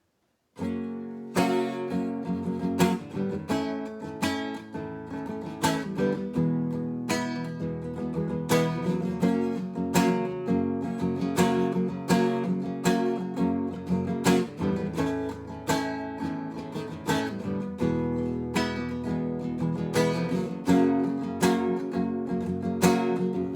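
Instrumental intro of a song: strummed acoustic guitar chords in a steady rhythm, starting about half a second in.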